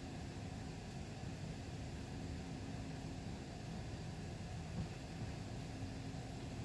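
Steady low rumble inside a passenger train carriage as the train rolls slowly, with a faint steady hum running through it.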